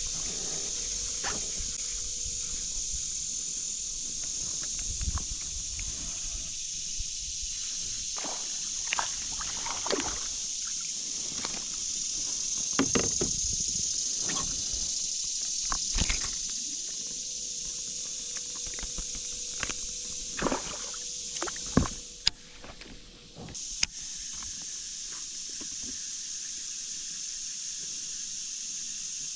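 Steady high-pitched drone of late-summer insects, with water sloshing and scattered knocks and clatters of gear against a fishing kayak.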